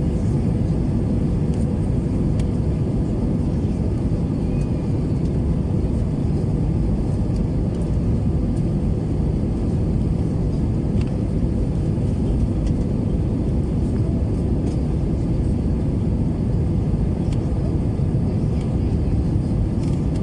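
Steady low rumble of an Airbus A321-200 heard from inside the passenger cabin, with a faint steady hum over it.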